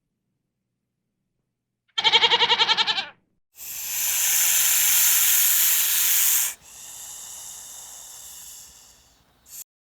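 A single wavering bleat of about a second, like a goat's. It is followed by a loud hiss lasting about three seconds, which trails into a fainter hiss and ends with a short burst.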